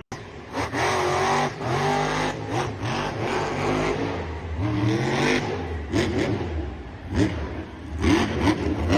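A large vehicle engine revving up and down several times, its pitch rising and falling over and over.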